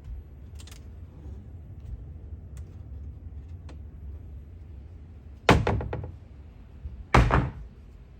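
Two loud clattering knocks about a second and a half apart, each made of several quick strikes, over a low steady rumble.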